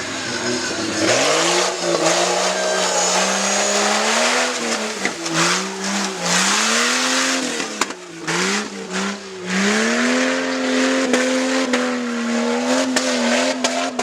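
Stock-class tuff truck engine revving up and easing off again and again as the truck works over an obstacle course, its pitch rising and falling. After a few short dips it holds at a steady high pitch for the last few seconds.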